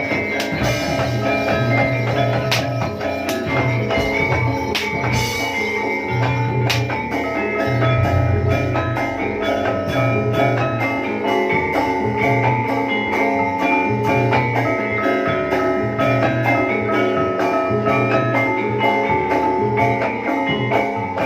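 Jaranan gamelan music played live: metal mallet percussion ringing over drums with a steady beat.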